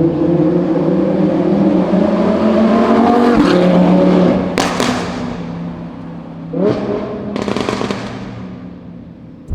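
Lamborghini Huracán's naturally aspirated V10 accelerating hard, its note climbing for about three seconds before dropping at a gear change, with sharp cracks. A quick rev blip follows, then the engine note fades away near the end.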